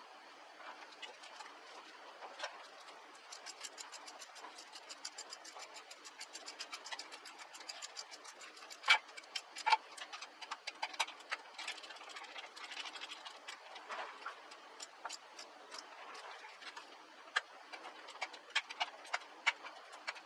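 A run of light, fairly even mechanical clicks, about six a second, with a few sharper, louder clicks in between.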